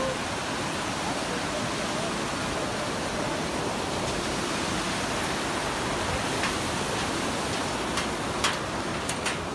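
Steady rush of flowing water, even and unbroken, with a few sharp clicks near the end.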